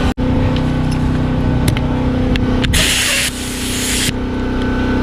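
A short hiss of an aerosol spray, about a second and a half long, begins about halfway through. Under it runs a steady machine hum, with a few small metallic clicks from tools before the spray.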